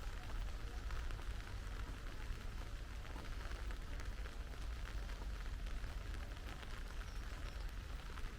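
Steady rain falling, many small drops ticking in a dense patter, over a steady low rumble.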